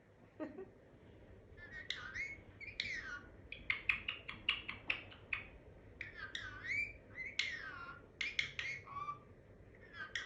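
Pet parrot whistling and chattering: a quick run of rising and falling whistles mixed with short clicks, starting about two seconds in and going on nearly to the end.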